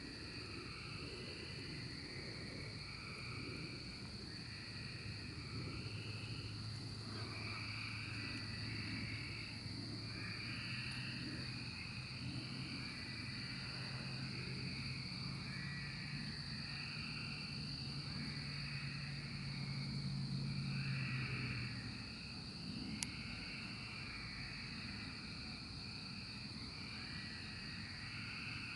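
Chorus of 13-year periodical cicadas (Magicicada): a steady high-pitched drone with overlapping calls repeating every second or two. A low steady hum runs underneath through most of the middle, and there is a single sharp click near the end.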